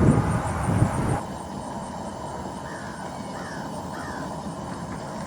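Crows cawing loudly. About a second in, the sound cuts to a quieter outdoor background in which a bird gives three short falling calls, about two-thirds of a second apart.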